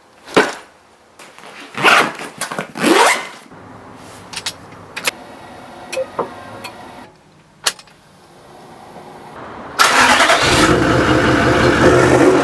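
A vehicle engine starting, with several short revs and a few sharp clicks, then running loudly from about ten seconds in.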